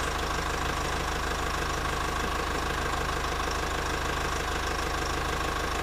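A small motor running steadily with a fast, even pulse, as from a miniature DIY tractor or mini water pump.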